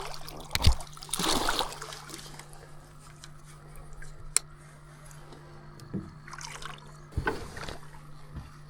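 Water splashing and trickling in irregular bursts as a hooked fish is brought to the riverbank and landed, with a sharp knock near the start and a steady low hum underneath.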